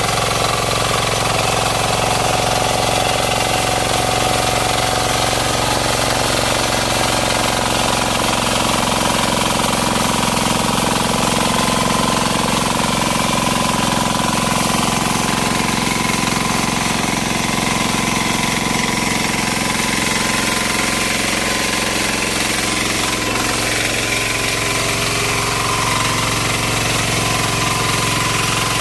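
Walk-behind power weeder's 9 HP diesel engine running steadily under load, with a rapid hammering beat, as its rear rotary tines work the soil between banana rows.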